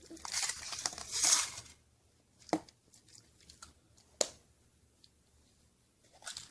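Foil wrapper of a Kinder Surprise chocolate egg being torn and crinkled, then two sharp clicks a second and a half apart, with a little more crinkling near the end.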